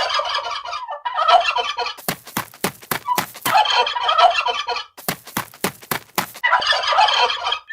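Turkey gobbling in about four rattling bursts of a second or so each, alternating with runs of sharp clicking notes.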